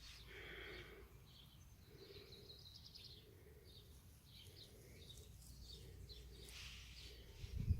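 Faint wind rumbling on the microphone, with birds chirping in the distance; a gust buffets the microphone near the end.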